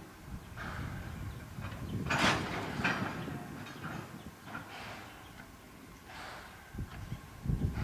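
JNR Class C11 steam locomotive working, a series of short, irregular puffs of steam over a low rumble, the loudest about two seconds in.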